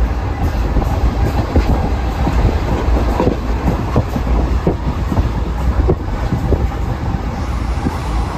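Moving passenger train heard from inside the coach: a steady heavy rumble of the running gear, with irregular sharp clicks of the wheels passing over rail joints.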